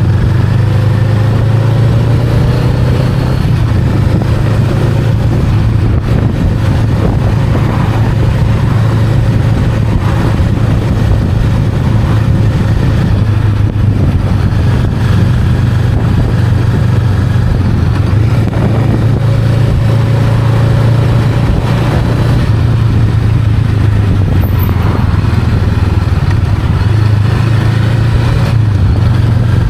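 Honda Rebel 500's parallel-twin engine running steadily under way, with a few gentle rises in pitch.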